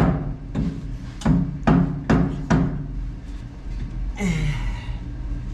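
Hammer blows on a steel frame section, seating it over a Jeep TJ frame rail: five sharp strikes in the first two and a half seconds, each with a short ring. A brief scrape follows about four seconds in.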